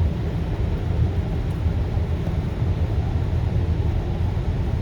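Car cabin road noise at highway speed: a steady low rumble of the engine and tyres heard from inside the moving car.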